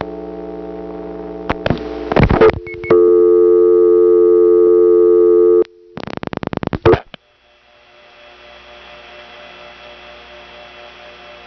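Payphone line: a steady dial tone broken by a few clicks, then a louder steady tone that stops about five and a half seconds in. A rapid, even run of rotary-dial pulse clicks for the digit 8 follows. After that a faint steady hum of tones fades in and holds: the TRinity step office's beating dial tones, heard over T-carrier.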